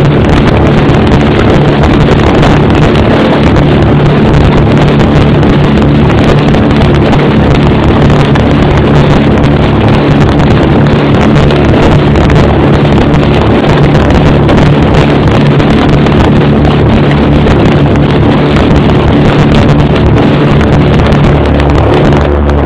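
Twin inverted six-cylinder inline piston engines of a de Havilland Dragon Rapide biplane running steadily at power, a loud, even drone heard from inside the cabin, with airflow noise over it.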